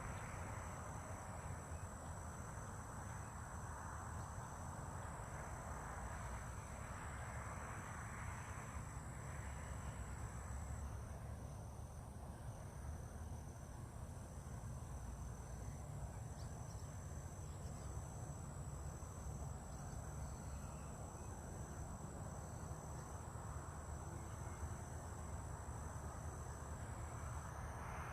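Crickets trilling: one thin, high, unbroken trill and a second trill that pulses in short, even beats, over a low, steady background rumble.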